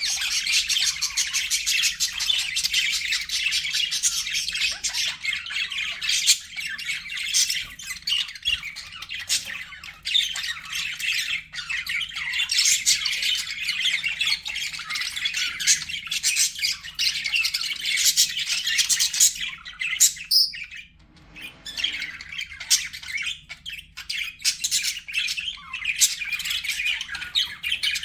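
Budgerigars chattering and chirping in a dense, continuous warble of short squawks and tweets, with a brief lull about three-quarters of the way through.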